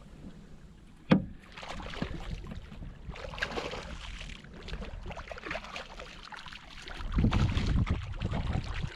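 Water slapping and sloshing around a fishing kayak, with handling knocks: a sharp knock about a second in, and a louder stretch of thumping and splashing near the end as a landed king mackerel thrashes at the kayak.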